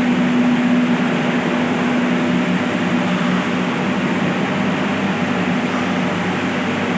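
Electric water pumps running with a steady hum.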